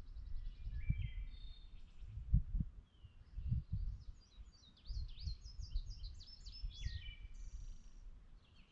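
A songbird singing a long, varied run of quick chirps, slurred notes and trills, busiest in the second half, over an uneven low rumble that swells and fades.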